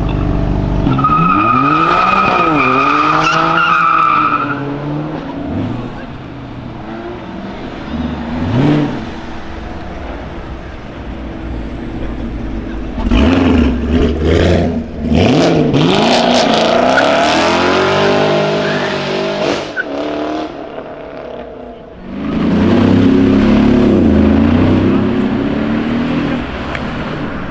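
High-performance sports-car engines revving and accelerating away one after another, pitch sweeping up and down through gear changes in three loud passes, with quieter running between.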